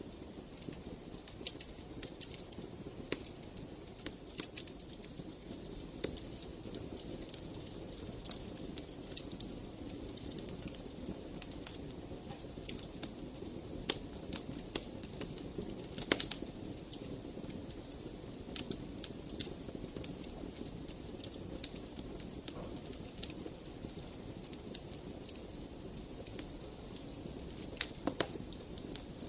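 Wood fire crackling, with irregular sharp pops over a steady low rustle of flames.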